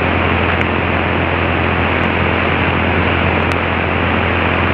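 Steady in-flight cockpit drone of a Cessna 172SP's Lycoming four-cylinder engine and propeller: a constant low hum under an even hiss, between radio transmissions.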